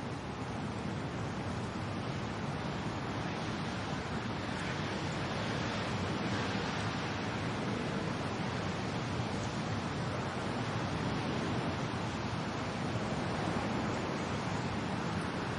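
Steady wind and rain making an even, unbroken rushing noise that grows gradually a little louder.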